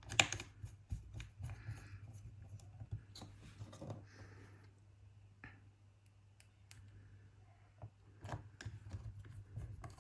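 Small clicks and short light scrapes of a small screwdriver driving the speaker screws back into a laptop's case, with a sharp click right at the start.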